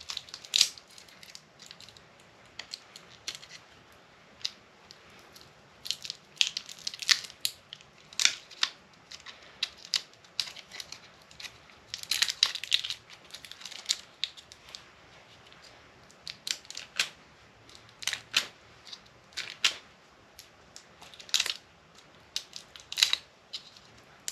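Knife cutting and peeling plastic and tape off a battery backup unit's transformer: irregular sharp crackles and tearing snaps with short quiet gaps between them.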